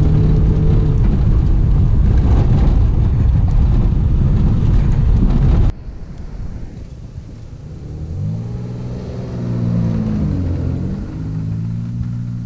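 A 1998 Dodge Avenger's engine revving hard as the car is driven fast on a dirt track, heard loud from inside the cabin. About six seconds in the sound cuts abruptly to the car heard from outside, its engine note rising and falling as it speeds past.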